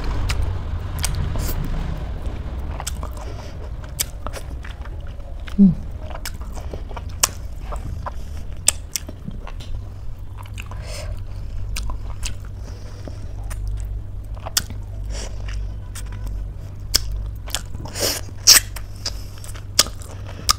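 Close-miked chewing and biting of fruit pieces, with sharp wet mouth clicks scattered throughout and a cluster of louder ones near the end, over a low steady hum.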